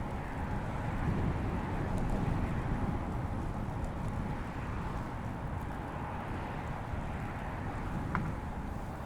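Steady wind rush and tyre noise from a road bicycle riding along a paved bike path, with one short click about eight seconds in.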